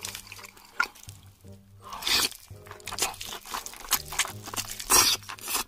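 Crunching and cracking eating sounds from king crab being bitten and broken, in sharp bursts with a loud crunch about two seconds in and another near the end, over background music.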